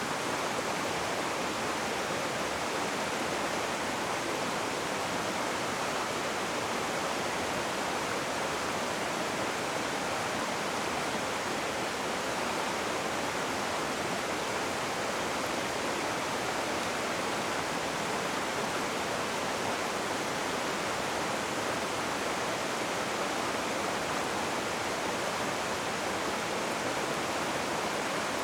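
Rushing river water in a constant, even rush, with no distinct splashes or changes.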